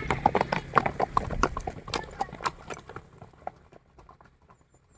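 Horse hooves clip-clopping in a quick, uneven beat, fading away over the last couple of seconds.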